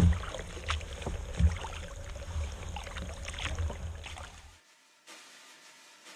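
Kayak on open water with a low wind rumble on the microphone and scattered knocks from the boat and paddle. About four and a half seconds in it cuts off abruptly, and faint background music begins.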